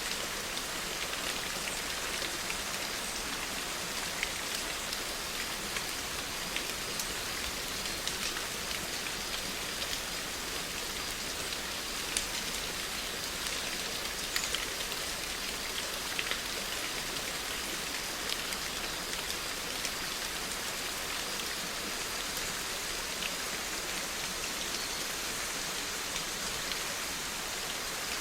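Steady rain falling, a dense even hiss with scattered individual drops ticking sharply on a surface.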